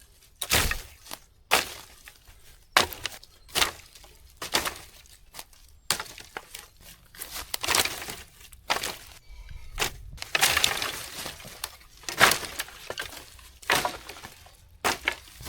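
Dry branches and sticks being snapped and broken for firewood: a dozen or so sharp cracks at irregular intervals.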